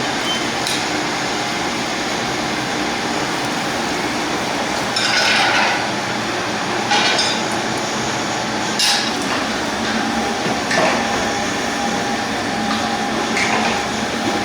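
Steady mechanical whirring noise, with a handful of sharp metal clinks and knocks over it, about five in all, typical of kitchen equipment and metal utensils or trays being handled.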